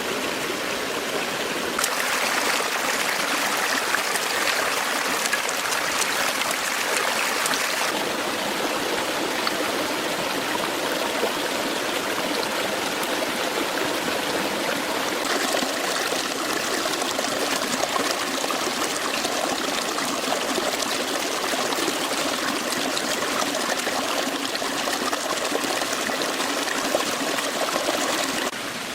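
Stream water flowing steadily over rocks. Its brightness changes abruptly a few times.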